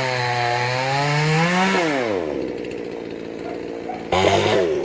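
Two-stroke chainsaw running at high revs, then the throttle is released and the pitch falls quickly to a low idle. It is blipped briefly, loudly, near the end.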